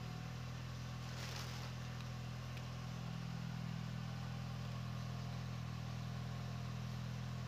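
Car engine idling steadily, an even low hum, with a brief rustle about a second in.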